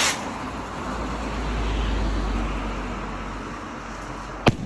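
Firework rocket in flight and then bursting: a low rumble, then a single sharp, loud bang near the end.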